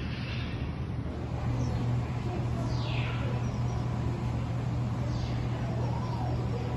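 Small birds giving a few short, falling calls over a steady low hum.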